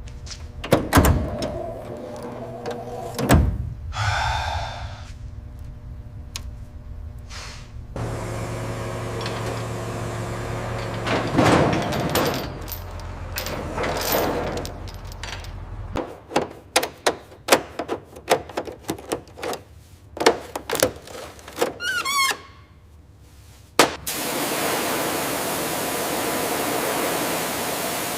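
A string of separate mechanical handling sounds: knocks and thunks with a short squeal, a steady low hum, then a dense run of sharp clicks and knocks. About four seconds from the end, these give way to an even, steady hiss.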